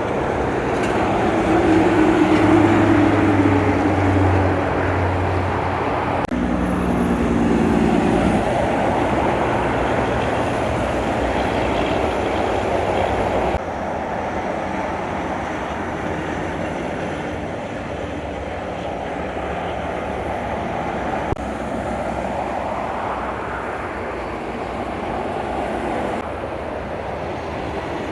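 Heavy trucks driving past with a steady run of engine and road noise. The engine note falls as one truck goes by in the first few seconds, and the sound changes abruptly several times.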